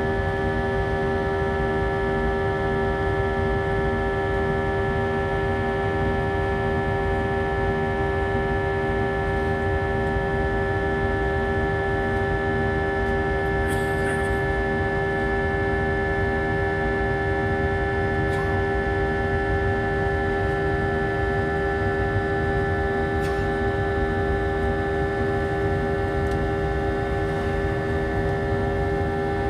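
Airbus A319 jet engines and airflow heard from inside the cabin during the climb: a steady drone with several steady whining tones over it.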